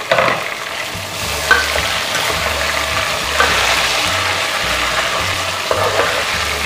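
Raw chicken pieces sizzling in hot oil with lightly browned onions in an aluminium pot, the start of frying the chicken. A metal spatula stirs the pot, scraping and knocking against its side a few times.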